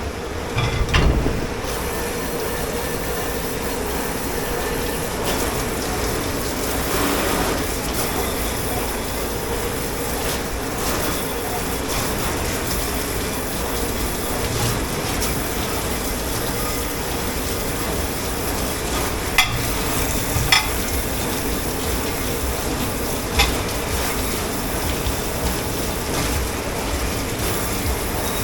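Steady hiss of running or spraying water at a commercial dishwashing station, with a few sharp clinks of crockery or cutlery about twenty seconds in and again a few seconds later.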